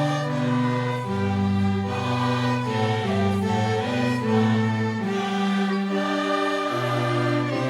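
Choir singing a slow hymn with string accompaniment, in long held chords that change about once a second.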